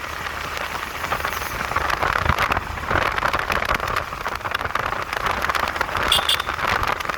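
Yamaha MT-15 motorcycle ridden at speed, heard as a steady rush of wind and road noise over a low rumble.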